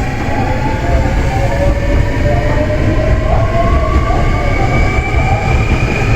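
Hankyu electric train running past the platform: a steady low rumble, with a motor whine of several tones slowly rising in pitch as the train gathers speed.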